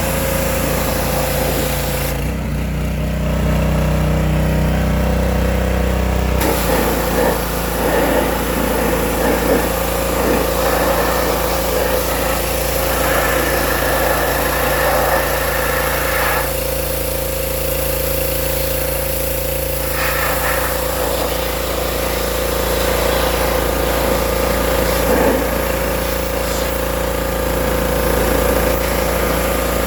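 Gasoline pressure washer's small engine running steadily while washing, with the hiss of the water spray dropping out twice for a few seconds, about two seconds in and again past the middle; the engine note shifts during the first break.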